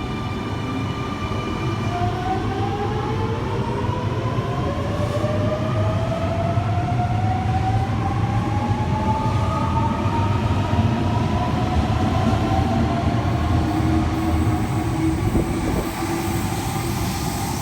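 Electric suburban train pulling away from the platform, its traction motor whine rising steadily in pitch for about twelve seconds over a low rumble.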